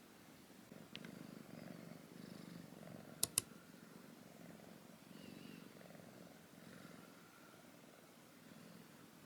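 Siberian kitten purring softly, the purr swelling and easing with each breath. Two sharp clicks close together about three seconds in.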